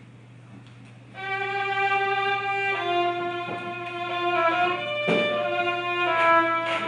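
Music: a violin playing slow, held notes, coming in about a second in over a faint steady hum.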